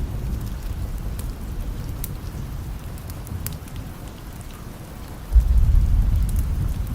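Steady rain with a low thunder rumble that fades, then swells again suddenly about five seconds in, with scattered sharp crackles over it.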